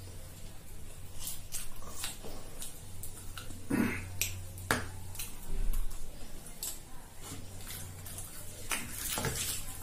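Close-miked eating sounds: irregular sharp clicks and wet smacks of chewing luchi and egg curry, over a faint steady low hum.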